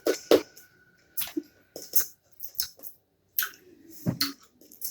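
Mouth sounds of someone eating a soft candy: scattered short smacks and clicks with quiet gaps between.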